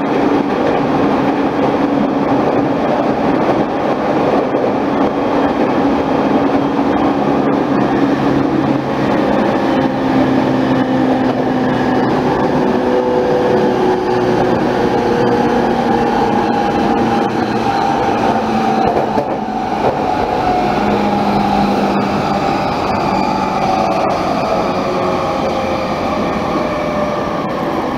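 Electric commuter train running at speed, heard from inside the carriage: a steady rush of wheels on rail with a few drifting humming tones from the running gear.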